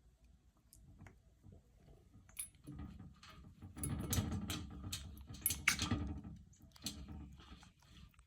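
Congo African grey parrot eating from its food dish: a run of small clicks, crunches and scrapes of beak and food, busiest and loudest in the middle.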